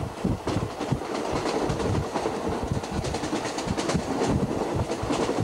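A State Railway of Thailand passenger train running along the line, heard from inside a carriage: a steady rumble of the running gear with irregular knocks and the wheels clacking over rail joints.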